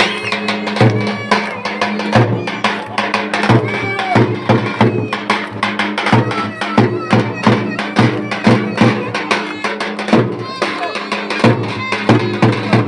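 Live Turkish folk dance music: rapid drum strokes in a steady beat under a wavering melodic line, over a sustained low drone.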